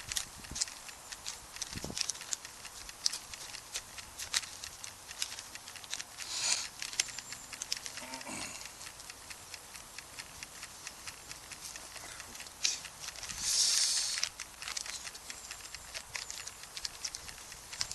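Wood campfire crackling with many small irregular pops and snaps, and two brief hissing rushes, about six seconds in and again near fourteen seconds.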